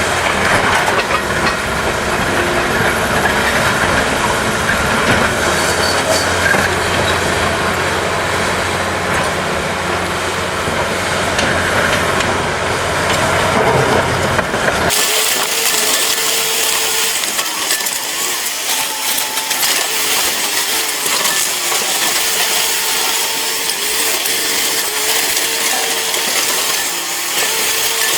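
Heavy machinery working: a loud mechanical din with a steady low engine hum and grinding. About halfway through it cuts abruptly to a thinner, hissy clatter with a faint steady whine and no low rumble.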